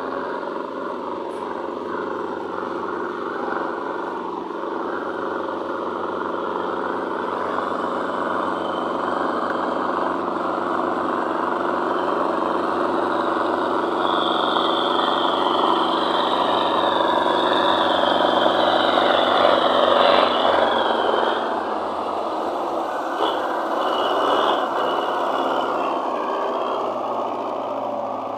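Tractor's diesel engine running steadily while hauling a heavy load of sugarcane. It grows gradually louder, then eases off about 21 seconds in, with a thin high whine over it for several seconds before that.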